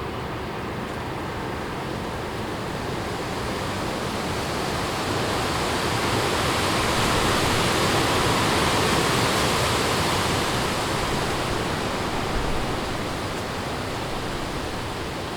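Strong wind rushing through forest trees and leaves. A gust builds about a third of the way in, peaks in the middle and eases off toward the end.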